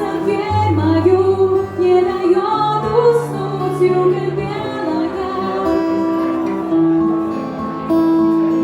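A woman singing a song with acoustic guitar accompaniment, moving into long held notes about halfway through.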